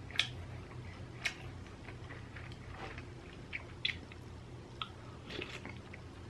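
Close-up chewing of inari sushi, vinegared rice in fried bean curd pouches: soft, moist mouth sounds with scattered small clicks and smacks.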